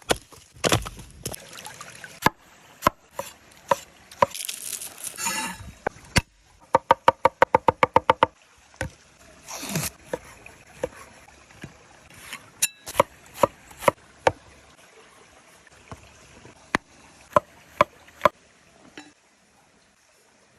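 Food preparation on a cutting board: scattered knife knocks and a fast run of chopping strokes about seven seconds in, with a few short rustling swishes between them.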